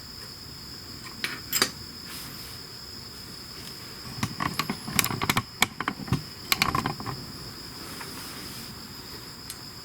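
Crickets chirring steadily in the background, with a cluster of sharp clicks and knocks about four to seven seconds in, and a couple more near the start, from tools and parts being handled during work on the motorcycle's shifter.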